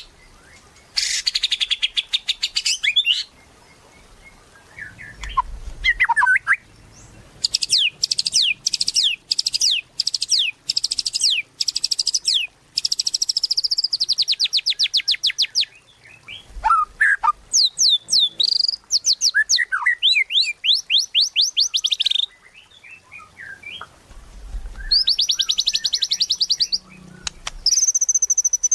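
White-rumped shama (murai batu) singing in full, vigorous song: bursts of fast, repeated high sweeping notes and rattling trills, broken by short pauses and lower whistled phrases.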